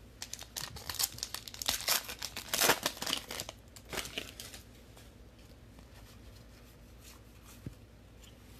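A trading-card pack wrapper being torn open and crinkled by hand: a dense crackling rustle for about four seconds, loudest near the middle.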